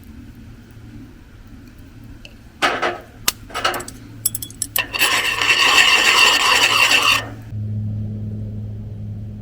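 Rough rasping scrapes: a few short strokes, then one longer scrape of about two seconds, and a low steady hum near the end.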